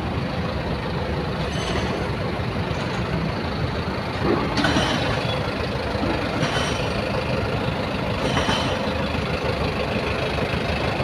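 Steady mechanical rumble of machinery or vehicles running, with a few short clanks spread through it, the loudest about four and a half seconds in.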